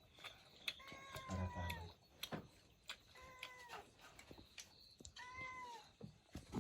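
A cat meowing three times, each meow short and about two seconds apart, with a few light knocks in between.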